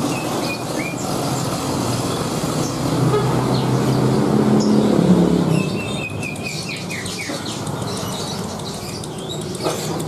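Cage birds chirping in short, falling notes over the steady hum of a passing vehicle's engine, which swells to its loudest about five seconds in and then fades.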